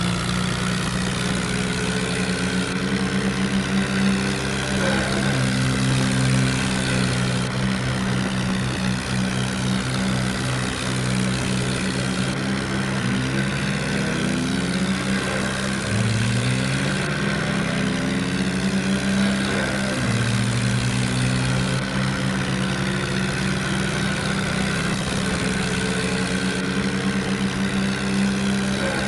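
Kubota tractor's diesel engine running steadily under work, its pitch dipping and rising briefly a few times as the load or throttle changes.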